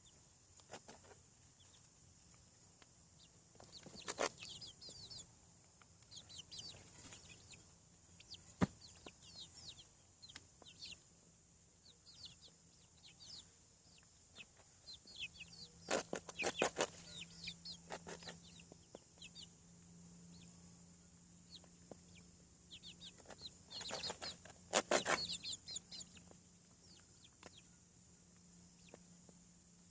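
Young chickens peeping with many short falling chirps, broken by louder bursts of clucking calls three times. A faint steady low hum joins about halfway through.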